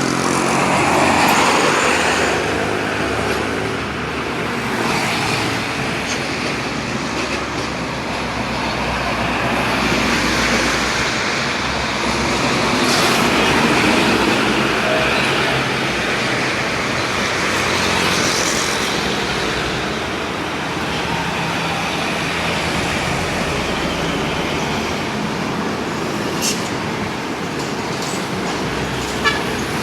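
Mitsubishi Fuso truck on the move: its diesel engine running under steady road noise, with a short sharp click near the end.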